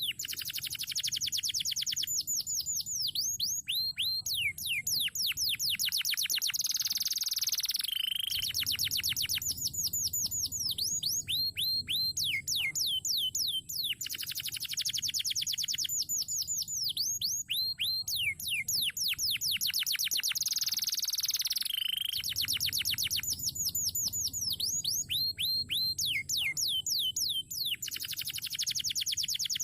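Crested canary singing a long, unbroken song: fast rolling trills of quick downward-sweeping notes, broken twice by a longer buzzy note that drops to a lower tone. The same song phrase comes round again about halfway through.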